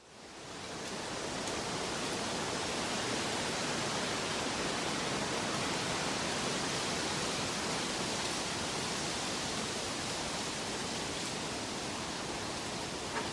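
Steady rushing water noise, fading in over the first second, with a small tick near the end.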